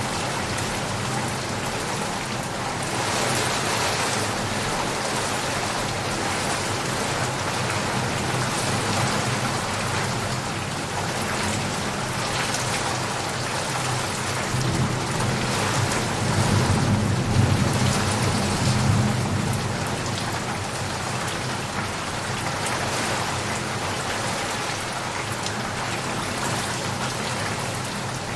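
Steady heavy rain falling, with a low rumble of thunder that swells a little past halfway and fades.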